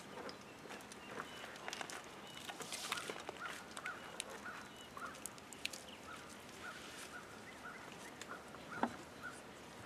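Faint outdoor ambience: many short animal calls repeated over and over, duck-like in quality, with scattered light clicks and a sharper knock near the end.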